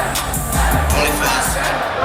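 Live hip-hop music over a festival's loudspeakers, with heavy bass notes and crisp drum hits, and a crowd shouting along. The bass drops out near the end.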